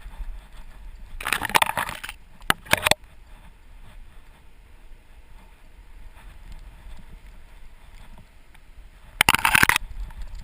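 Scraping and rubbing on a dog-mounted GoPro harness camera as the dog runs, over a low wind rumble. There are loud scraping bursts a second or so in and again near the end, with two sharp knocks just after the first.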